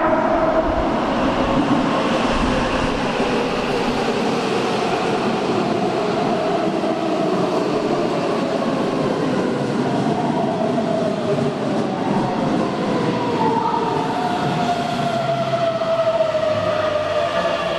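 A Keihan 9000-series electric commuter train pulling into an underground station platform. The end of a horn blast trails off right at the start, then steady running noise, and a whine falls in pitch through the second half as the train brakes to a stop.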